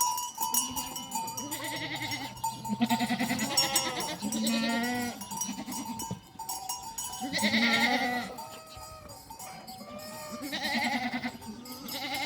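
A flock of small livestock bleating, about six quavering calls under a second each, over the steady ringing of animal bells.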